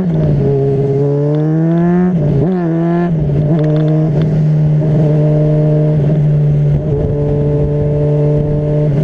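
Honda CBR600RR's inline-four engine pulling up through the revs, dropping at a gear change about two seconds in and climbing again, then holding a steady pitch as the bike cruises.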